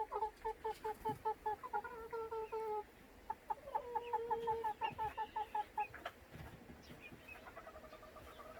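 Cheonggye chickens clucking: quick runs of short clucks, about five a second, broken by a few longer drawn-out notes, growing softer near the end.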